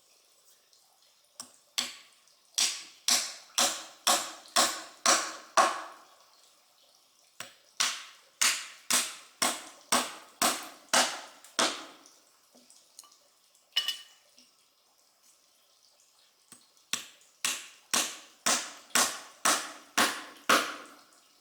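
Repeated hard blows of a hand tool, about two a second, in three runs of eight or nine strikes each, with a single blow in between.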